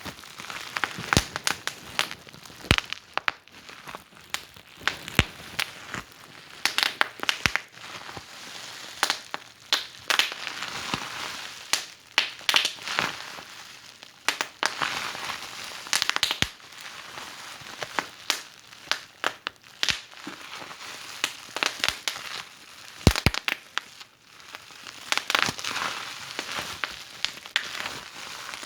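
Fireplace fire crackling, with irregular sharp pops several times a second over a soft hiss that swells and fades now and then.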